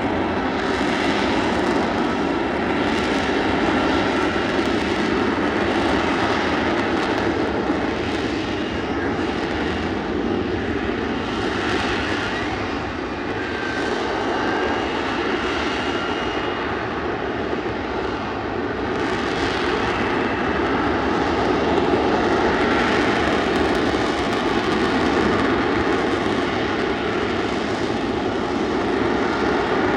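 F-35B's jet engine running steadily with a loud, even roar while the aircraft hovers in STOVL mode.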